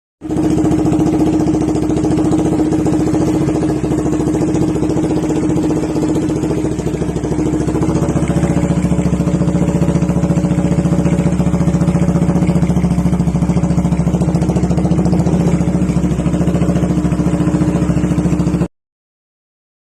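Yamaha Scorpio 225 chopper's single-cylinder four-stroke engine idling steadily with a loud, even exhaust beat. The sound cuts off suddenly near the end.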